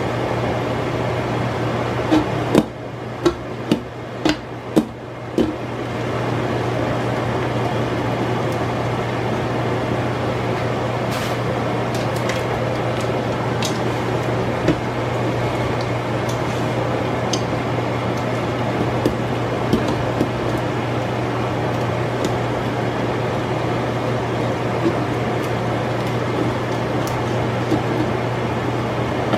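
Chicken wings frying in a pot of hot oil: a steady sizzle over a low hum. The sizzle drops for a few seconds near the start while several sharp knocks sound.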